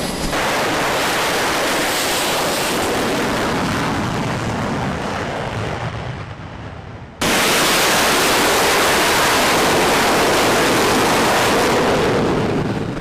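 Jet aircraft noise: a loud, even rushing roar that fades and dulls over the first seven seconds. About seven seconds in, a sudden cut brings a fresh full-level roar, which tails off near the end.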